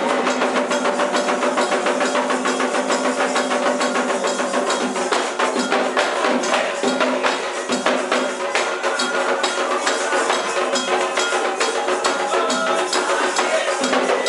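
Candomblé ritual music: fast, steady hand percussion with shakers and a clacking beat under sustained held tones.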